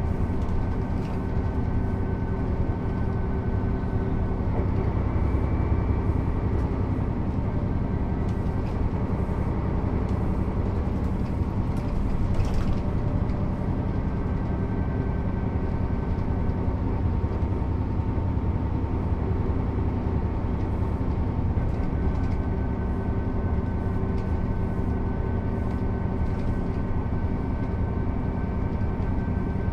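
1996 Mercedes-Benz O 407 bus with manual gearbox under way, its diesel engine and running gear making a steady rumble with a thin whine over it.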